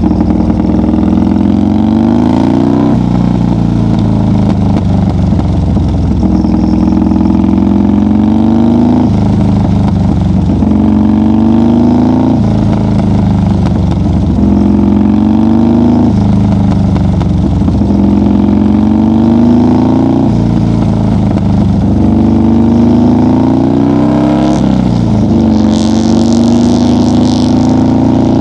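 1990 Harley-Davidson FXR's V-twin engine running under load while riding, its pitch climbing steadily and then dropping back every two to three seconds as the throttle and gears change. Near the end a rush of hiss joins it.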